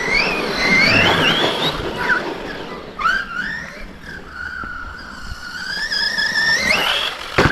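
Brushless electric motor of an RC monster truck whining, its pitch rising and falling with the throttle, with a short sharp knock near the end.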